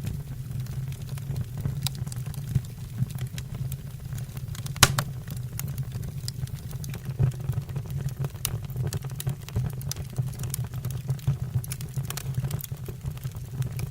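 Wood fire burning in a fireplace: a steady low rumble of flame with frequent crackles and pops from the logs, one louder pop about five seconds in.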